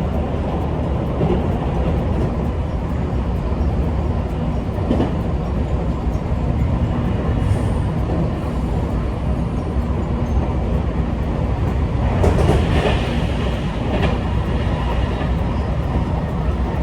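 Electric train running at steady speed, a continuous low rumble of wheels on track, with a few short clacks from the rails.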